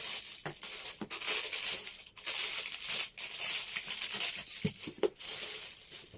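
Plastic packaging crinkling and rustling as it is handled, in uneven spells with brief pauses and a few light knocks, cutting off suddenly at the end.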